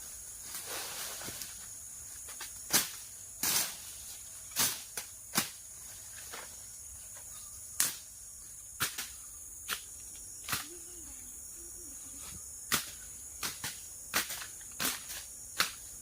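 Forest insects, crickets or similar, make a steady high-pitched drone, broken by irregular sharp clicks and knocks about once or twice a second, which are louder than the drone.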